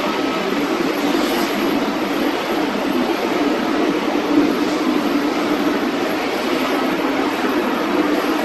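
Jet engines of a Boeing 777 freighter (twin GE90s) running, a steady noise with a wavering low hum and no breaks.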